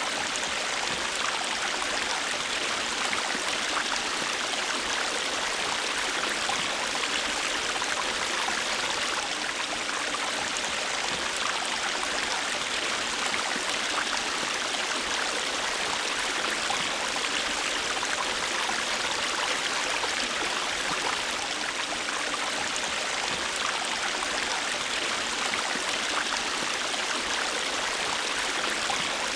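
A shallow river or stream flowing, a steady rushing and babbling of water with no change in level.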